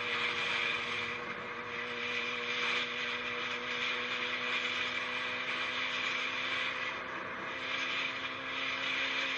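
Steady vehicle noise: an even hiss with a constant low drone, without any distinct impact.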